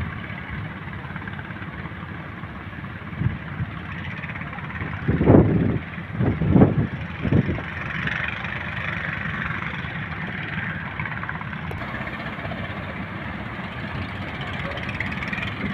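Heavy surf from big waves breaking: a steady roar, with three or four loud, deep rumbles about five to seven seconds in.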